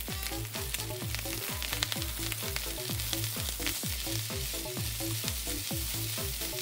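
Fried rice sizzling in a hot stainless steel skillet while a silicone spatula stirs and scrapes it around the pan. A background music track with a steady electronic beat plays under it.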